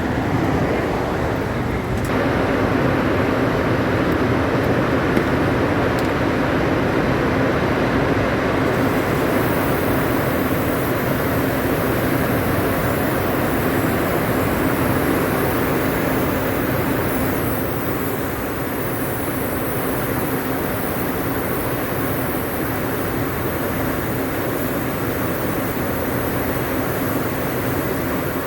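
Rooftop air-conditioning machinery running: a steady drone with a constant low hum. A thin high hiss joins about nine seconds in.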